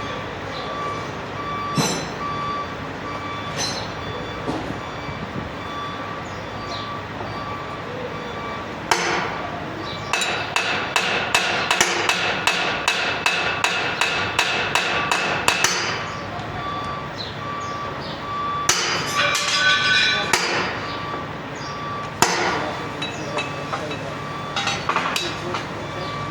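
Hammer blows on metal: a few separate strikes, then a fast run of about three ringing blows a second for about six seconds, then more scattered blows.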